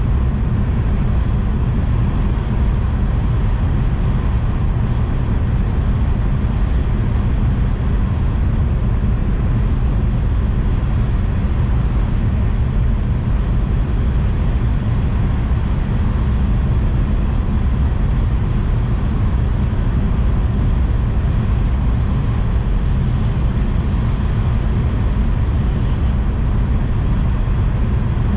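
Tohoku Shinkansen bullet train running at speed, heard from inside the passenger car: a steady low rumble under an even rush of running noise.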